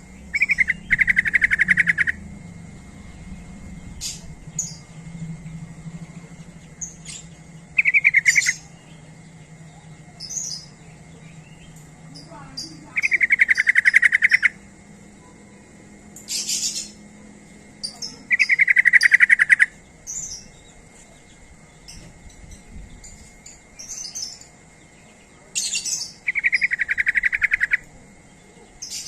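Yellow-vented bulbul calling: five fast, chattering phrases, each a second or two long, with short, higher chirps between them.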